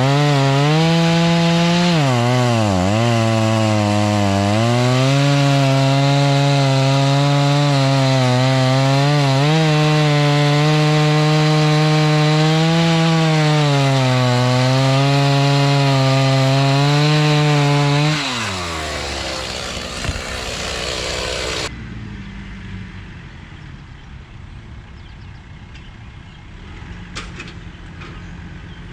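Rural King RK55 tractor's diesel engine driving a Woodland Mills WG24 PTO stump grinder into wood. The engine note dips and recovers several times as the cutter wheel loads up. About 18 seconds in the engine and grinder wind down, leaving a much quieter low rumble.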